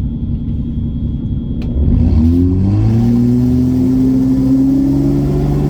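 Single-turbo BMW N54 straight-six engine running at a low rumble, then revving up sharply about two seconds in and pulling under load with a pitch that rises slowly and steadily.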